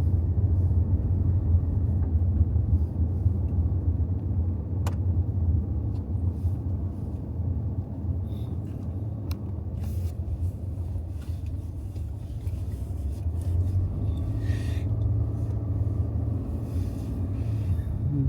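Car driving at a steady moderate speed, a continuous low road and engine rumble heard from inside the cabin, with a couple of faint ticks.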